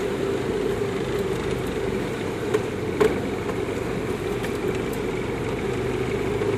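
Jeep engine running steadily while driving through mud and standing water, heard from inside the cab. Two short knocks come about two and a half and three seconds in.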